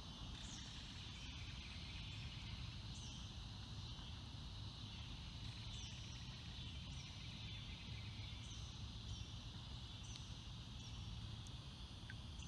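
Faint outdoor river ambience: short bird chirps falling in pitch, repeated every couple of seconds, over a steady high hiss and a low rumble.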